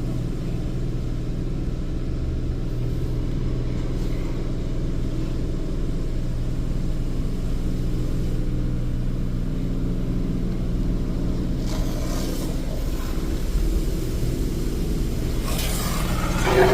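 Steady low machine hum of a Mark VII Aquajet automatic car wash, heard from inside the car's cabin. Near the end a louder rush of water spray starts hitting the car.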